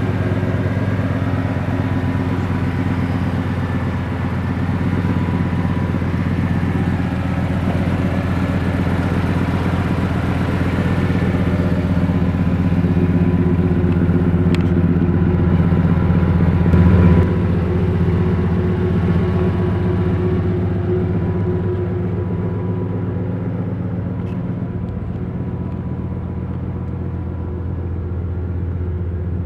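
Twin-turbo LS V8 of a Chevrolet Chevelle idling with a steady, even rumble, with a brief swell about 17 seconds in.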